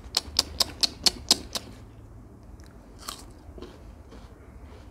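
Raw jicama being chewed: a quick run of crisp crunches, about four or five a second, fading to a few softer crunches after about a second and a half.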